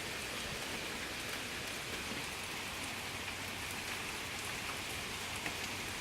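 Heavy rain falling steadily: an even hiss with scattered ticks of individual drops.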